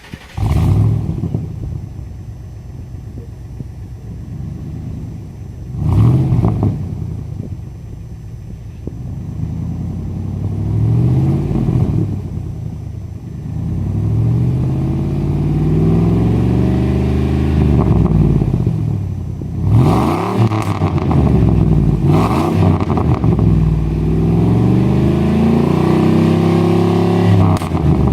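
1999 Ford F-150's 5.4-litre V8 running through an exhaust with the muffler deleted: it catches and settles to a lumpy idle, gets one quick blip, then is revved again and again, the pitch climbing and falling with each rev.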